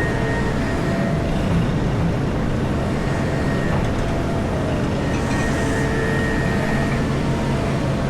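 Komatsu PC4000 hydraulic mining excavator's engine and hydraulics running steadily under load, heard inside the operator's cab. A faint high whine comes and goes over the deep rumble.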